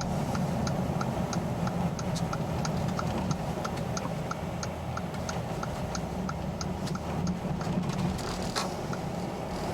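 A car's turn-signal or hazard flasher ticking evenly, about three clicks a second, over the low, steady sound of the engine running.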